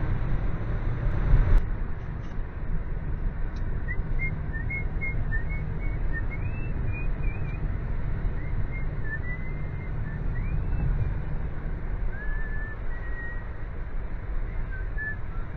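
Steady low engine and road noise of a car driving. From about four seconds in, a person whistles a short tune of quick, gliding notes over it.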